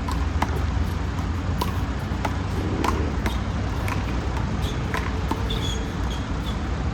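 Handball rally: the small rubber ball smacked by palms and off the wall and pavement, about nine sharp cracks at uneven intervals, over a steady low traffic rumble. A few short high chirps come near the end.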